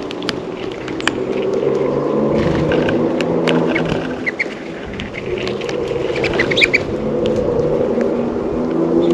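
Traffic on a road passing by, a low rumble that swells, dips about five seconds in, and swells again. A bird gives short high chirps a few times around the middle, among scattered light clicks.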